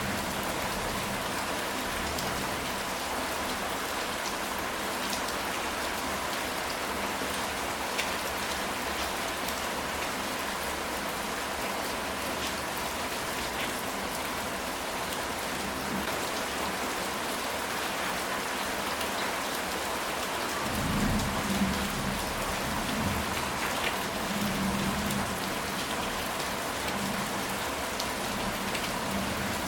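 Steady rain falling on a ceramic tile roof, an even hiss with scattered drop ticks. About two-thirds of the way through, thunder rumbles for a few seconds and the sound swells briefly.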